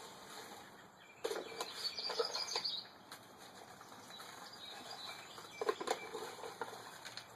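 Dirt being scooped and packed by hand around a bottle in a baking pan: bursts of rustling, scraping and gritty clicks, with a longer burst about a second in and a shorter one near the end.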